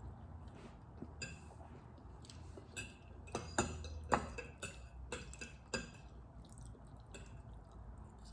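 Spaghetti being eaten: forks clinking and tapping against dishes, with small mouth sounds, as a string of soft, irregular clicks. The loudest come about three and a half and four seconds in.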